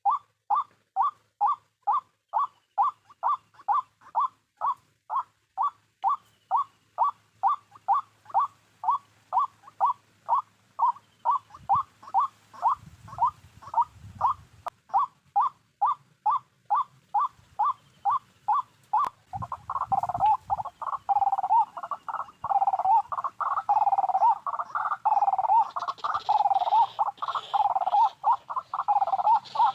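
White-breasted waterhen calls: a croaking note repeated evenly about twice a second, which about two-thirds of the way through turns into a denser, overlapping run of croaks. A few low thuds sound in the middle.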